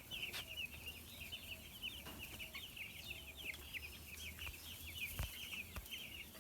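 A flock of 11-day-old broiler chicks peeping continuously, many short high chirps overlapping.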